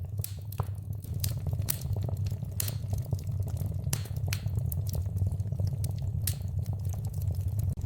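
Wood fire burning in a fireplace, crackling, with scattered sharp pops over a steady low rumble of the flames.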